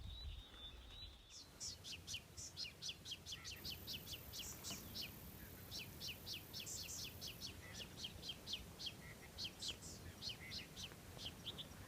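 A songbird calling a long run of quick, high, down-slurred chirps, several a second, fairly faint. A faint, steady, very high hiss joins it for a few seconds in the middle.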